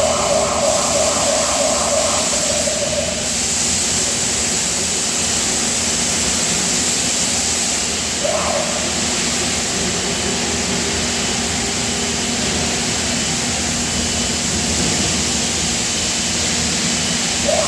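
Steady machinery noise of a die-casting shop around an 850-ton UBE die-casting machine: a continuous hiss with a hum underneath. A brief higher-pitched sound runs through the first three seconds, and another comes about eight seconds in.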